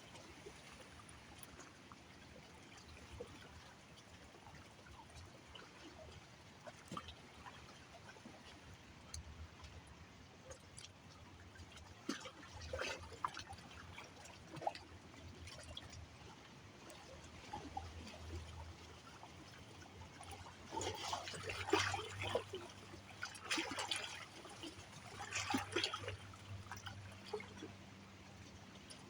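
River water trickling and splashing, quiet at first, with a louder stretch of splashes about twenty seconds in.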